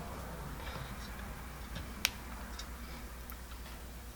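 A few light clicks and taps of small metal stove parts being handled, with one sharper click about two seconds in, over a low steady hum.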